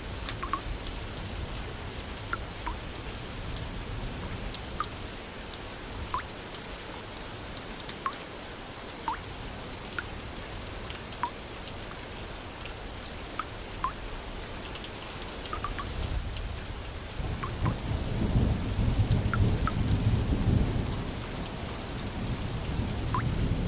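Steady rain with scattered single drops plinking sharply on a surface, and a low rumble of thunder that swells about two-thirds of the way through and then eases.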